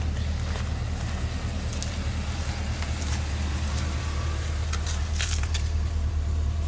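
Chevrolet 2500HD pickup truck engine running with a steady low hum, with a few light clicks about five seconds in.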